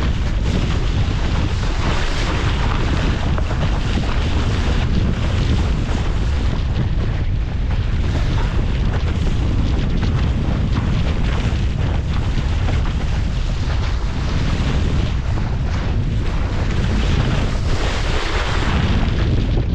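Strong wind buffeting the microphone of a camera aboard a Laser sailing dinghy in high wind, with water rushing along the hull underneath; steady throughout.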